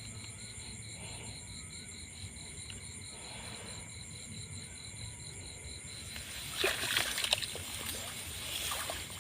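Water splashing and sloshing in several quick bursts, starting about six and a half seconds in, over a steady high pulsing chorus in the background.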